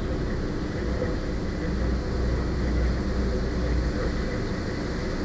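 Car ferry's engines running at a steady drone under way: a constant low rumble with a few faint held tones on top.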